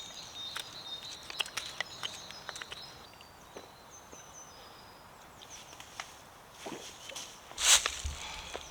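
Woodland birdsong with scattered clicks and crackles of movement on the twiggy forest floor, and a loud rustle near the end.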